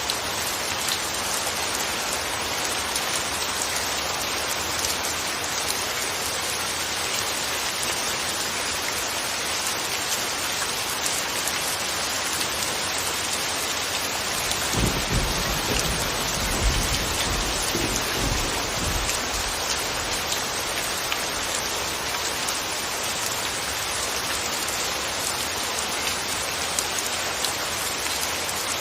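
Steady rain falling. About halfway through, a low thunder rumble rises under it for several seconds and fades.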